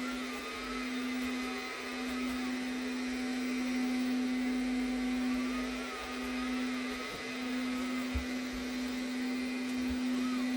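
Arnagar S8 robot vacuum running in mopping mode, a steady motor hum with a wavering higher whine, with a soft knock about eight seconds in.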